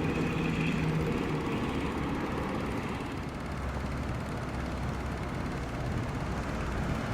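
Motorcycle engine running: a steady low rumble.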